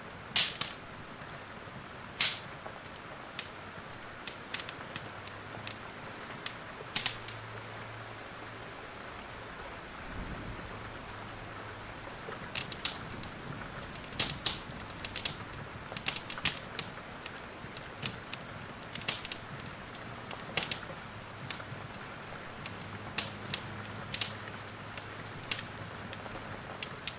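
Steady hiss of rain with irregular sharp pops and crackles of a wood fire in a fireplace, some louder than others.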